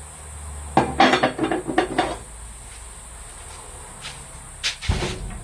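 Steel parts clattering and clinking for about a second, starting about a second in, then a short knock near the end, over a low steady hum: a drilled piece of flat bar being handled on the switched-off steel vise.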